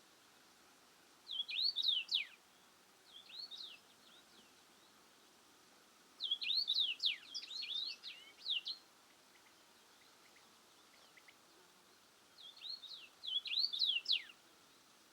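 A songbird singing in short bursts of rapid, high, sweeping chirps, with three main phrases and one fainter one, over faint outdoor background hiss.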